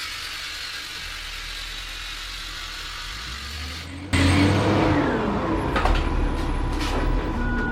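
Angle grinder grinding down a fresh steel weld, a steady hiss that starts and stops abruptly after about four seconds. It is followed by a louder garbage truck engine rumble with falling whines and a few clanks.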